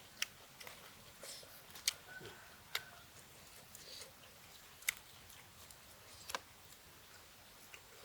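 Quiet eating sounds: a handful of sharp, isolated clicks and light taps spread irregularly over several seconds.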